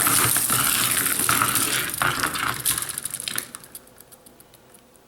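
Ripcord-launched Bakugan spinning tops whirring and clattering against each other in a small plastic battle arena. The whir gives way to a run of separate knocks and rattles as they lose speed, dying away about three and a half seconds in.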